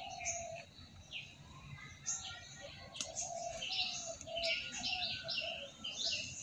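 Small birds chirping, with short high notes that quicken into a fast run of repeated calls over the second half, and a lower repeated call underneath. There is a single faint click about three seconds in.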